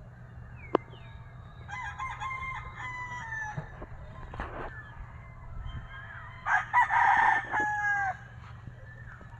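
Gamefowl roosters crowing: a long crow about two seconds in, then a louder, closer crow a few seconds later. A single sharp click comes just before the first crow.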